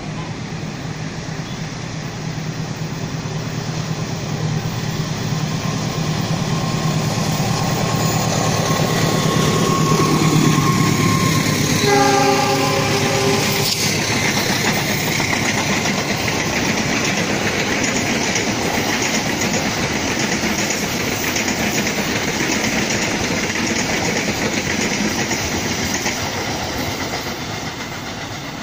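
KA 154 Gajah Wong, a diesel-locomotive-hauled passenger train, passing at speed. The locomotive's drone builds as it approaches. Its horn sounds once, for about two seconds, around twelve seconds in. Then the coaches clatter over the rail joints as they go by, fading near the end.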